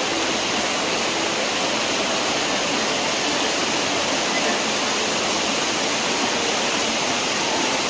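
Waterfall rushing steadily, water pouring and splashing over rock in a loud, even noise with no let-up.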